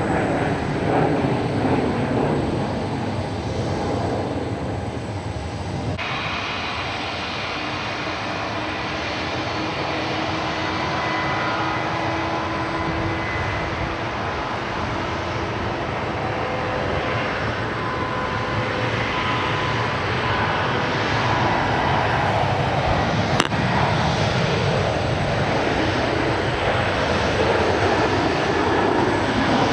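Jet airliner engines running, a loud steady rush of noise with faint whining tones above it. A single sharp click sounds about two-thirds of the way through.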